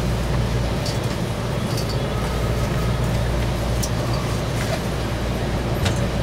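Steady low rumble inside a BART train car, with a faint steady whine and a few light clicks.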